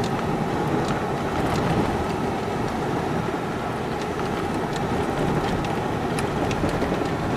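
Steady engine and road noise heard from inside a moving bus, with a few faint clicks.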